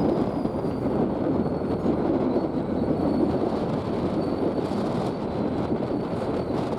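Pair of EMD SD40-2 diesel locomotives running on a switching move, a steady rumble with a faint high whine that slowly falls in pitch, mixed with wind buffeting the microphone.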